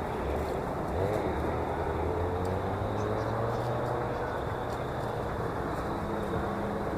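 Steady engine noise from motor traffic, with a low hum that rises slightly in pitch about a second in, as an engine pulls away.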